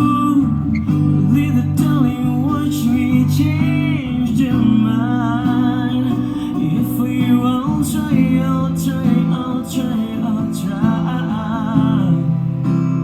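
Acoustic guitar strummed with a low bass line under it, while a wavering melody with vibrato, most likely a singing voice, rises above it.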